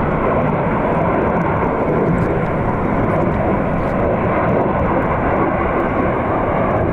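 Airplane engines running with a loud, steady noise, with no rise or fall in pitch.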